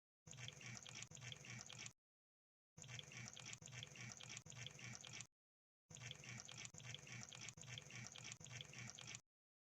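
Crab sound effect: faint wet clicking and crackling in three bursts, with about two clicks a second, each burst cut off by a short stretch of dead silence.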